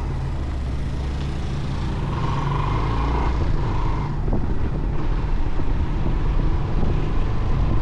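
Motorcycle engine running steadily while riding, a constant low rumble.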